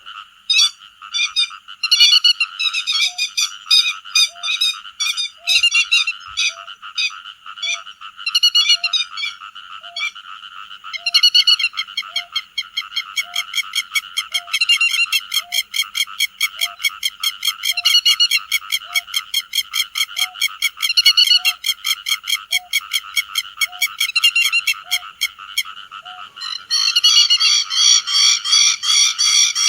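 Grey-headed lapwing calling over and over with sharp, high calls: scattered groups at first, then a fast, even run of calls, and denser, louder calling near the end.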